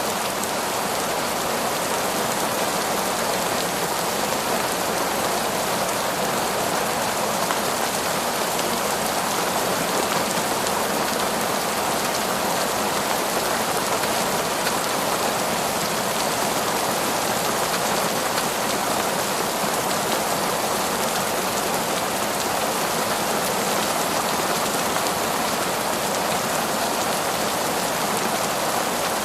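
Heavy, torrential rain falling steadily in a forest, a dense even hiss of rain on leaves and ground.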